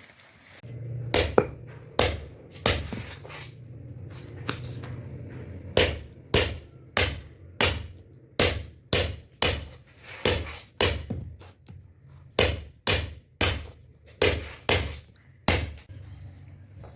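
Hammer blows struck one after another, about two a second, with a short pause around the middle and a few scattered blows in the first few seconds. A low steady hum runs underneath.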